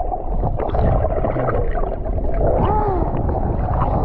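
Steady rushing noise of wind and water on a sailboat under way. A short rising-and-falling vocal sound comes about three seconds in.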